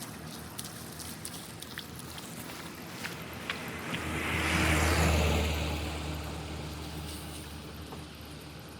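A car passing by: its engine and tyre noise build from about four seconds in, peak a second later and fade away.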